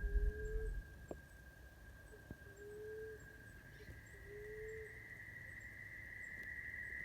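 Dove cooing: three soft, low hoots, each under a second and rising slightly, spaced about two seconds apart, over a steady high-pitched drone.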